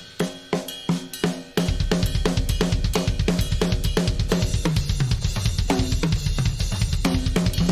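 Solo drum kit: a few separate drum and cymbal strikes that ring out, then about a second and a half in a fast, dense run of bass drum and snare strokes starts and keeps going.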